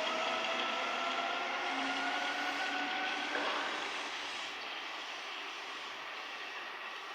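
Seibu 2000 series electric train pulling away, its traction motors and gears whining in several tones that rise slowly in pitch as it accelerates, then fading a little after about four seconds. A single click about three and a half seconds in.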